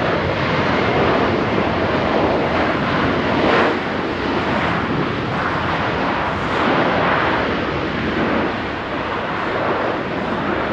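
Jet airliner engines: a loud, steady rush of noise that swells a little and eases without stopping.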